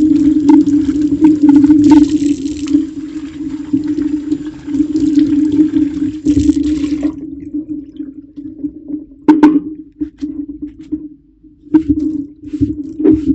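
Kitchen tap water running into the sink over dishes, turned off about seven seconds in, followed by a few sharp clinks of dishes or utensils, over a steady low hum.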